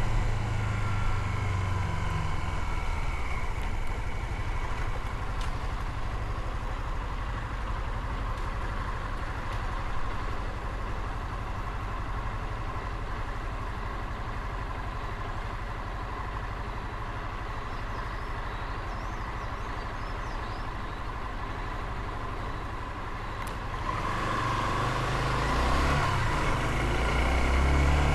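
Motorcycle engine with road and wind noise while riding. The engine note drops in the first couple of seconds, then runs low and steady. About 24 seconds in it grows louder, and the pitch rises as it accelerates near the end.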